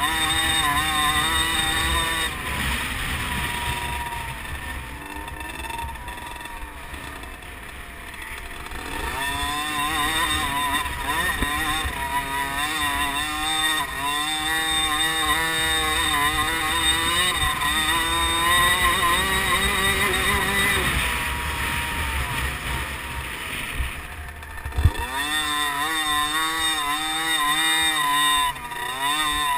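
Small 50cc liquid-cooled two-stroke motocross bikes racing, engines revving up and down as the throttle is worked. The engines fade somewhat a few seconds in and build again, with one sharp knock near the end.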